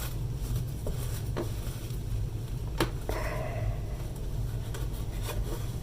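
Handling noise while pressing a wood top panel onto a radio cabinet: a few soft clicks and taps over a steady low hum.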